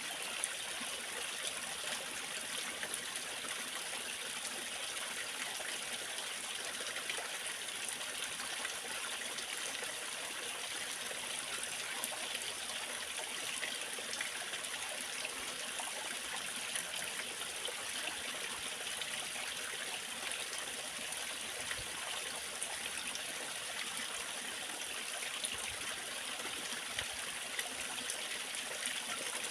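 Waterfall water splashing and rushing steadily, a continuous hiss with no breaks.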